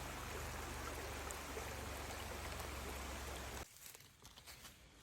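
Flowing stream water rushing steadily, cutting off suddenly about three and a half seconds in; faint light ticks and rustles follow.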